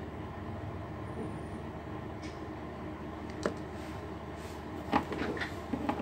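Steady low background rumble with a few light clicks and taps of small parts and tools being handled at a workbench: one click about 3.5 s in and a quick cluster near the end.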